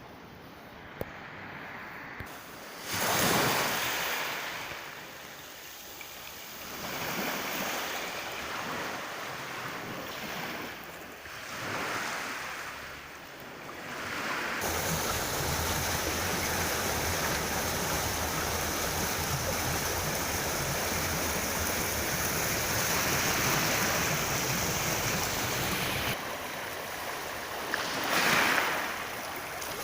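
Sea surf washing on the shore, swelling and fading every few seconds. In the middle, a steadier, louder rush starts and stops abruptly, with wind buffeting the microphone.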